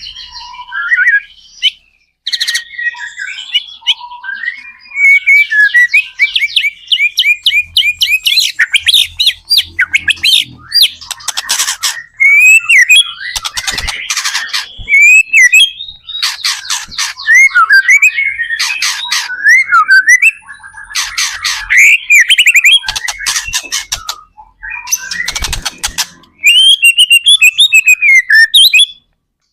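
White-rumped shama (murai batu) singing loudly and continuously, with fast, varied phrases of repeated notes and trills broken by short pauses.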